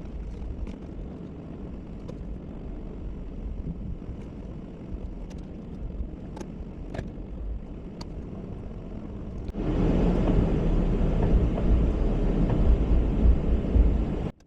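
Plow truck running, a steady low rumble with a few sharp clicks. About two-thirds of the way through, a much louder, rougher noise takes over, then cuts off abruptly.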